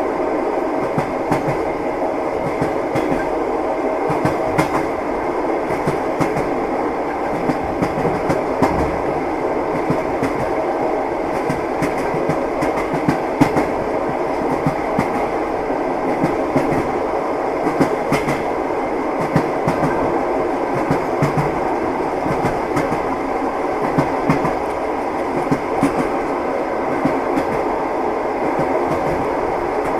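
Moving train's wheels clacking over the rail joints: a steady running rumble with repeated sharp clacks throughout.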